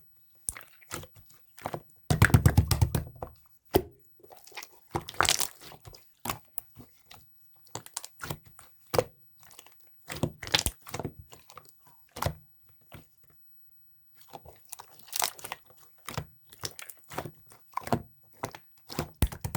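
Clear yellow slime being squished and pressed by hand, giving irregular crackling clicks and pops from trapped air, with a denser, louder burst of crackling about two seconds in.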